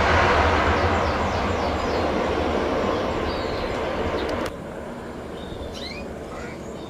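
Jet airliner's engines, a loud roar that slowly fades, then cuts off suddenly about four and a half seconds in, leaving a quieter background with a few faint chirps.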